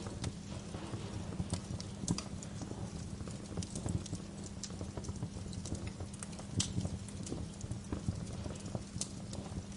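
Bonfire crackling: logs snapping and popping at irregular intervals over a steady low rumble of burning, with a few louder pops.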